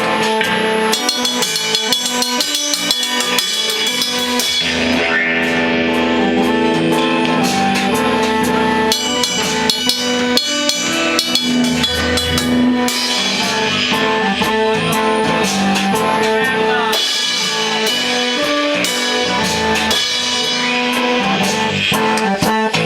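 A rock band playing live: electric guitars and a drum kit, loud and steady.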